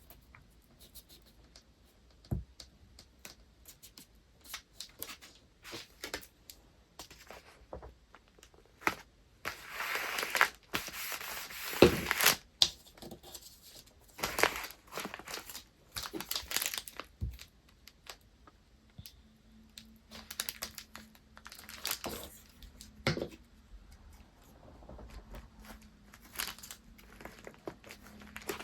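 Paper wrapping being handled: irregular rustling, crinkling and tearing with small taps and clicks, and a denser run of rustling about ten seconds in.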